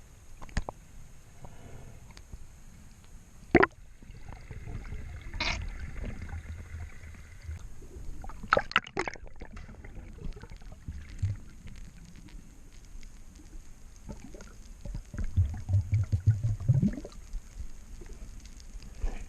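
Water gurgling and sloshing with a low rumble, broken by several sharp clicks and a short run of low thumps about three-quarters of the way through.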